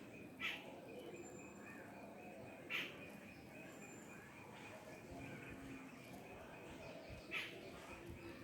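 A bird gives three short, sharp chirps a few seconds apart, over a faint, steady, pulsing high-pitched trill.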